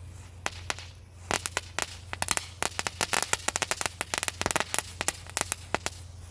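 Ground firework crackling: a rapid, irregular string of sharp pops and crackles that starts with a few scattered snaps and thickens about a second in.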